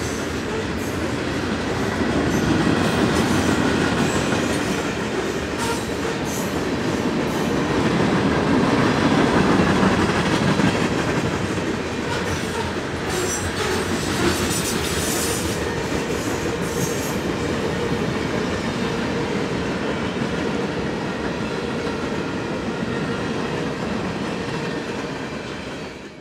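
Freight train cars rolling past at close range: a steady rumble and clatter of steel wheels on the rails, with a few brief sharp clanks. The sound cuts off abruptly near the end.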